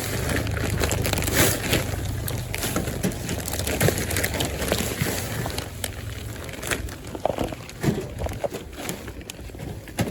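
Bagged organic raised-bed soil mix being poured and handled: a plastic bag crinkling and soil rustling and crunching, with many small clicks. Heavier for the first few seconds, then thinning to scattered rustles and clicks.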